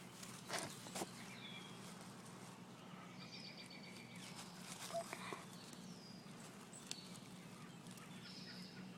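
Faint bird chirps, several short high notes that each slide quickly down and then hold, some coming in quick runs. Under them is a low steady hum, with a few sharp clicks and knocks in the first second or so.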